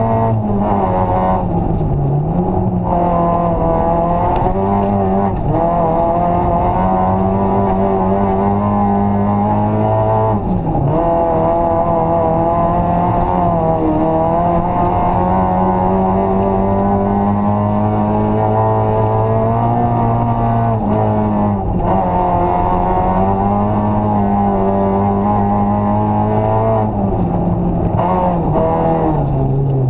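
Rally car engine heard from inside the cabin, driven hard on a snowy stage: revs held high and steady, with the pitch dropping briefly at gear changes about 2 s in, about 10 s in, about 21 s in and near the end.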